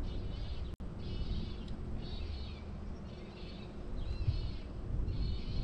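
A bird calling in six short, high-pitched phrases, about one a second, over wind rumbling on the microphone.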